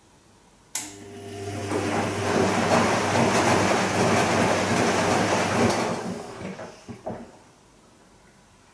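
Bosch Serie 2 VarioPerfect washing machine: a click, then a steady hum with a rush of water that swells and runs for about five seconds before dying away with a couple of small knocks.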